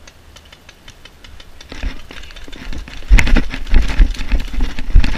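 Quick patter of footsteps with rustling and rattling, as of a player moving at a run; it becomes much louder and closer about three seconds in, with heavy low thudding.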